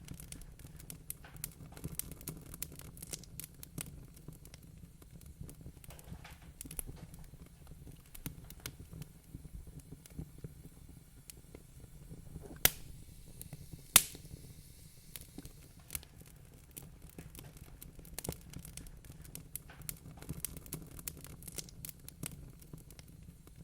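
Wood fire crackling in a fireplace: frequent small snaps, with two louder pops a little past the middle, over a steady low rumble.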